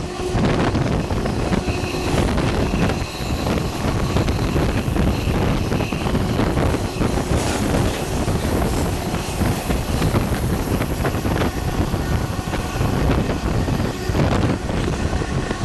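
Passenger train running on the Carajás railway, heard from aboard: a steady rumble and rattle of the moving train, with wind buffeting the microphone.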